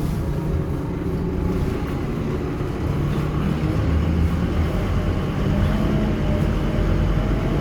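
Scania K230UB bus's diesel engine running steadily under way, its note building slightly a few seconds in, with a faint whine that rises gently near the end.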